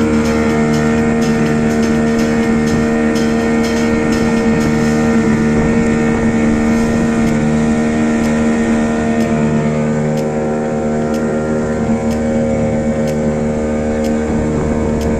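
Motorboat engine running steadily at constant speed, a loud even drone with a fixed pitch.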